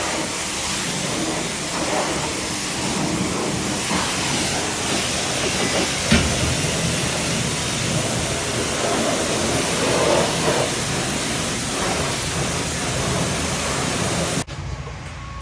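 Self-serve car wash pressure-washer wand spraying a steady high-pressure jet of water onto the car, with a brief knock about six seconds in; the spray cuts off suddenly near the end.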